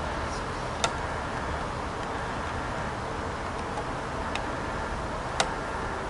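Steady rumble of a departing push-pull commuter train, with three sharp clicks: about a second in, past four seconds and past five seconds.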